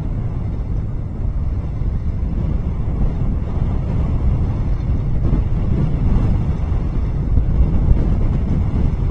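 Wind buffeting an outdoor nest camera's microphone: a continuous low rumble that swells a little in the second half.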